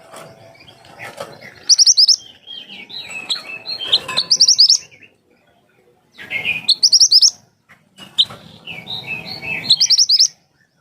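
Mantenan gunung songbird singing in four bursts. Each burst is a chattering warble that ends in a quick run of sharp, high 'tembakan' notes.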